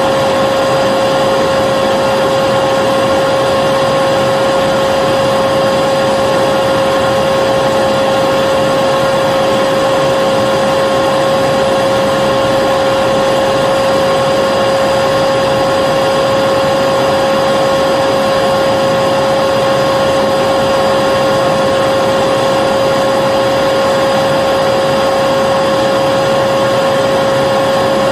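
Vacuum cleaner motor running steadily, a constant whine over a rushing hiss of air, with no change in pitch or level.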